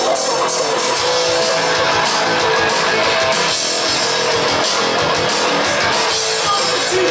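Rock band playing live: guitar with drums.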